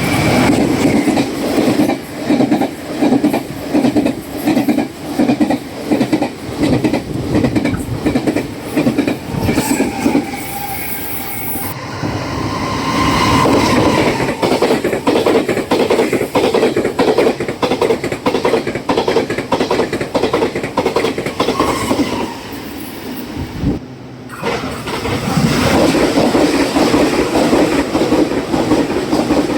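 Taiwan Railways trains passing at high speed, their wheels clattering rhythmically over the fishplate joints of jointed rail. The sound changes abruptly twice, once a little under halfway through and again about four-fifths of the way in, as one pass gives way to the next.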